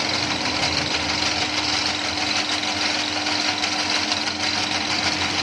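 Noodle-making machine, converted from hand crank to motor drive, running steadily: a fast, even mechanical clatter over a steady motor hum.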